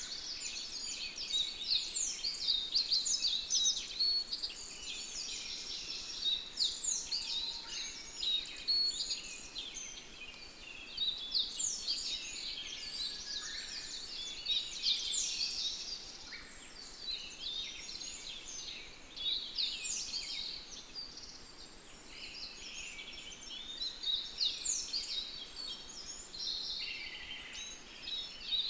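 A dense chorus of many small songbirds chirping and twittering at once, unbroken throughout, swelling louder in patches.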